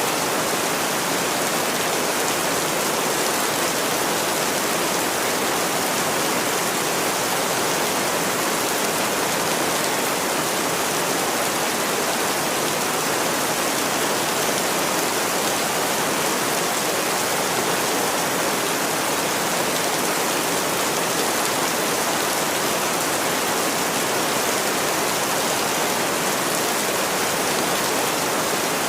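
Steady rain falling, an even hiss of many drops that does not change in level.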